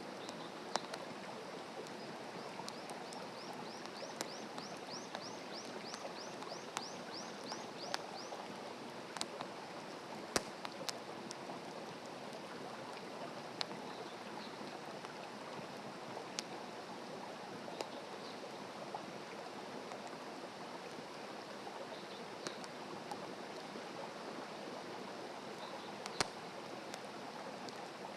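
Wood fire burning: a steady hiss with sharp crackles and pops scattered through, the loudest about ten seconds in and near the end. Near the start, a high chirping call repeats about three times a second for several seconds.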